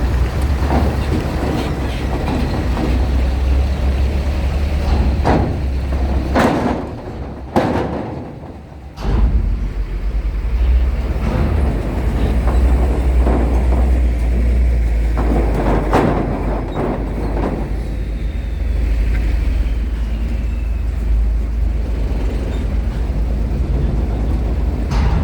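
Steady low rumble of heavy vehicles moving at a ro-ro ferry loading area, with several sharp knocks and a brief drop in the rumble about seven seconds in.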